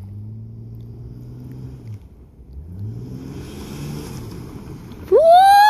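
An SUV's engine running steadily, dipping at about two seconds, then revving up as the vehicle slides sideways on snow, with a hiss from the tyres. Near the end a loud rising whoop from a person close to the microphone covers it.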